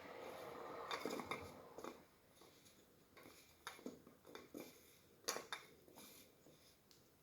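Faint handling sounds of an LED bulb being fitted into a lamp socket: scattered light clicks and clinks, with the sharpest click about five seconds in.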